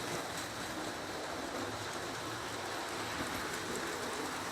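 Several model trains running together on O, S, HO and N gauge loops: a steady, even whir of electric motors and metal wheels rolling over track.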